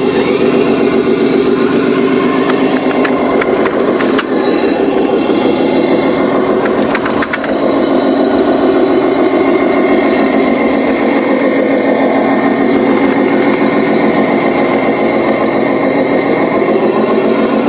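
Heavy truck's diesel engine running steadily, with a few light clicks partway through.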